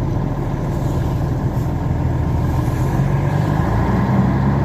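Truck's diesel engine running steadily, heard from inside the cab, with its pitch edging up slightly near the end.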